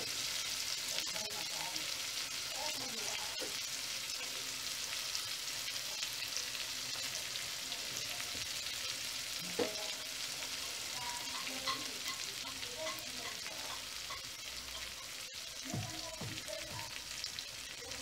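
Chopped tomatoes and onions frying in a metal pot with a steady sizzle.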